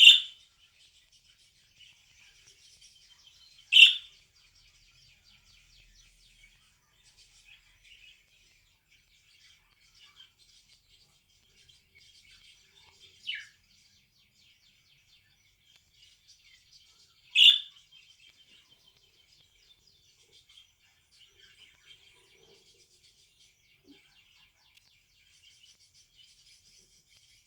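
Pet budgerigar chattering softly and steadily in high twitters, broken by short, loud chirps at the very start, about four seconds in, more softly about thirteen seconds in, and again about seventeen seconds in.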